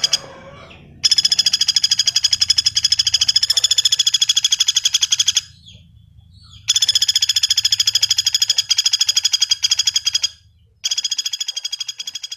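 Common flameback woodpecker (pelatuk bawang) giving its loud rattling call: three long runs of rapid, evenly spaced notes, each lasting a few seconds, with short pauses between them.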